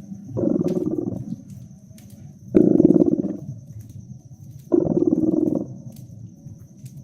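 Domestic cat purring close to the microphone, a loud low buzz that swells about every two seconds with each breath and drops to a softer purr between. Faint crackles of a wood fire sound underneath.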